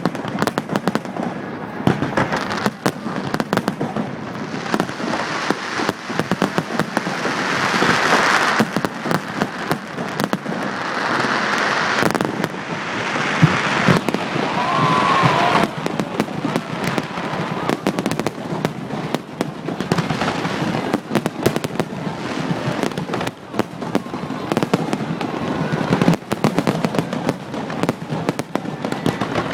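Aerial fireworks display: a rapid, continuous series of bangs from bursting shells, with several swells of dense crackling in the middle.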